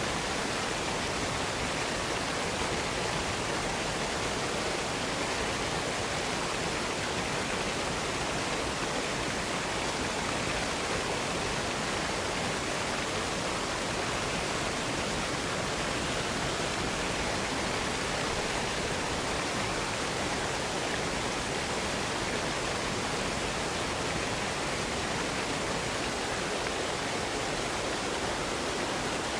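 Waterfall running: a steady, even rush of falling water with no change in level.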